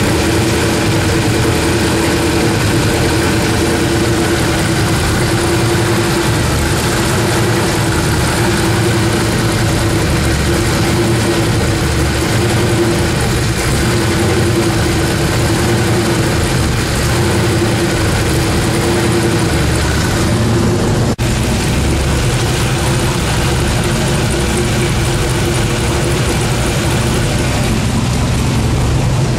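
Twin-turbocharged Pontiac Firebird engine running at a steady idle on its first run. There is one sharp click about two-thirds of the way through.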